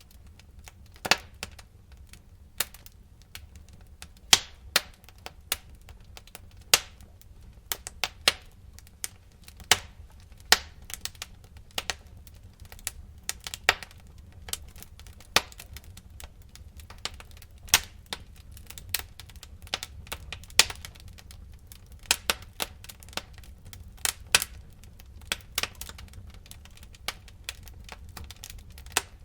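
Campfire burning, with frequent irregular crackles and sharp pops of burning wood over a low steady rumble of the flames.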